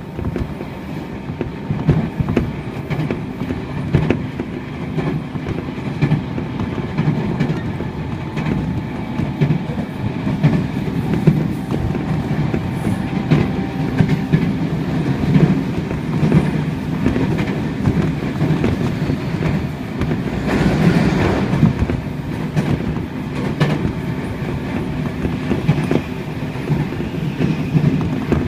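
Running noise of a Tobu 30000 series electric commuter train heard from inside the car at speed: a steady rumble of wheels on the track with the clickety-clack of rail joints. The noise swells for a few seconds about two-thirds of the way through.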